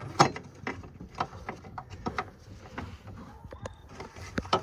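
Irregular clicks and knocks of parts being handled and fitted by hand in a pickup's engine bay, with the sharpest knock about a quarter second in.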